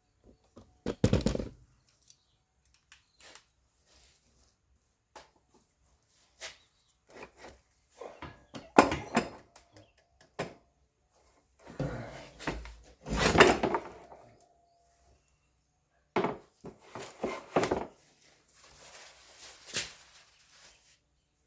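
Irregular knocks, clunks and scraping of hand tools and metal parts being handled, with louder clatters about a second in, at about nine seconds, and twice more a few seconds later.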